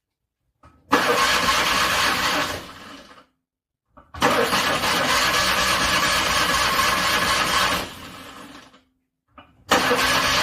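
Car engine being cranked over by its starter in the cold, in repeated tries: two long bursts of cranking and the start of a third, each dying away after the key is let go. The engine does not catch.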